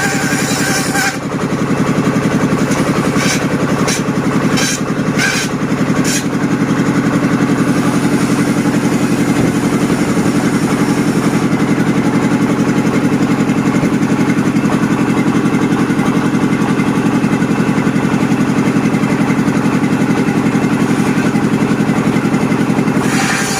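Diesel engine driving a table saw, running steadily with a fast, even pulse. A few short, sharp sounds come through between about three and six seconds in.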